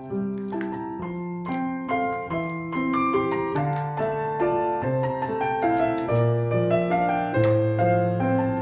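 Piano music playing, many notes moving in a steady flowing pattern.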